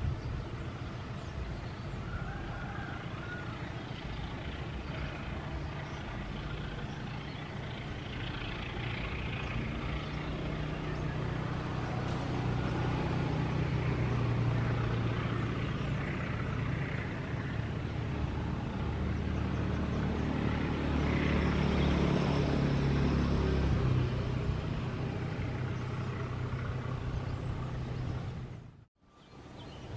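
Diesel-hauled passenger train running along the track: a steady low diesel engine drone with rail rumble, growing louder toward the middle and cutting off abruptly near the end.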